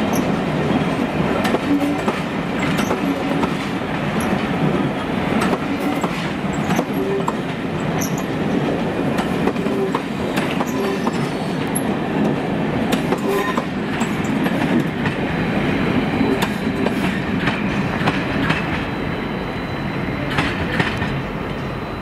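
Pullman coaches of a departing steam-hauled train rolling past, their wheels clicking irregularly over rail joints and pointwork on top of a steady rumble. The sound eases a little near the end as the last coach draws away.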